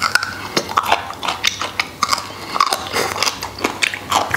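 A person biting and chewing soft braised beef trotter tendon, with irregular mouth smacks and clicks several times a second.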